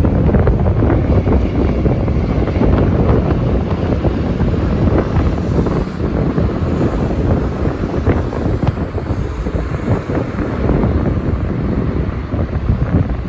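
Loud wind buffeting the phone's microphone, a constant low rumble broken by irregular crackling pops.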